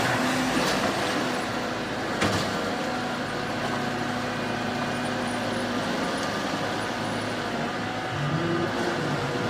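Boat engine running steadily, with a single knock about two seconds in and the engine note rising near the end.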